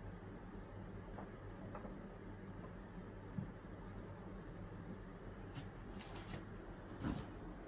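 Quiet room with a steady low electrical hum. Faint light clicks and taps, mostly in the last couple of seconds, which fit a kitten batting a small toy ball about on a hard floor.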